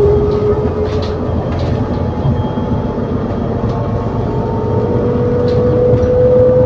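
Inside an ADL Enviro400 City double-decker bus with a Voith gearbox while it is moving: steady engine and drivetrain noise under a clear whine that slowly rises in pitch, with a few light rattles.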